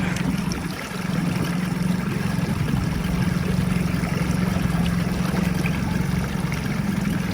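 Boat motor running steadily at low speed, a constant low hum, with water sounds around the hull.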